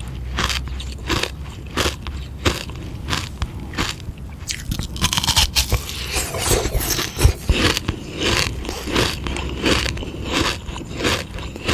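Close-miked biting and crunching of a hard sugar-water ice lolly, about two crunches a second, with a longer scraping, crackling stretch partway through.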